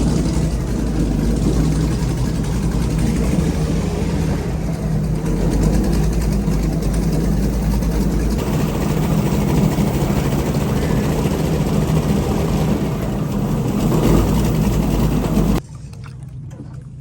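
Tour boat's engine running steadily at a low, even pitch, then cutting off sharply near the end.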